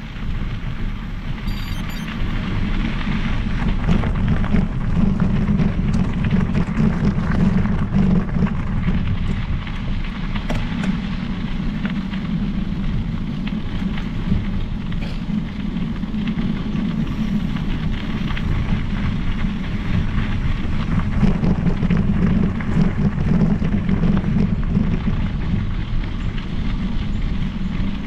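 Continuous rumbling noise of a mountain bike being ridden: tyres rolling over the trail and wind buffeting the microphone, with a few faint ticks.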